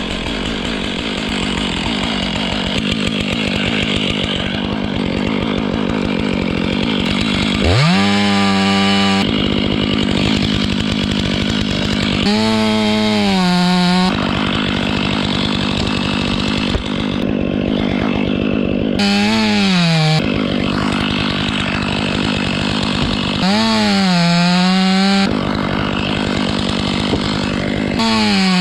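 Two-stroke chainsaw cutting conifer wood: a rough, loaded running sound, five times revved up to a high steady whine whose pitch sags as the chain bites back into the wood.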